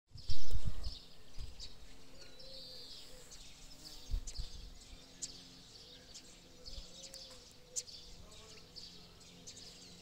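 Small birds chirping and singing in short high calls throughout, with a few loud low bumps of handling or wind on the microphone, the loudest in the first second.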